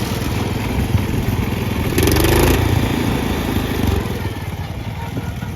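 Cub Cadet riding lawn tractor's engine running under load as it is driven while stuck, briefly louder about two seconds in and easing off near the end.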